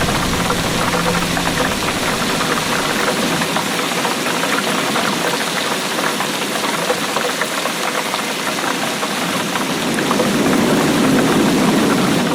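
Heavy rain falling in a steady, dense patter, with a low rumble swelling near the end.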